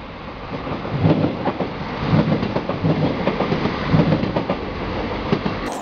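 A TER regional train passing close by, its wheels clattering over the rail joints in a run of heavy thumps as the cars go past. The clatter grows louder from about half a second in, and the sound cuts off abruptly just before the end.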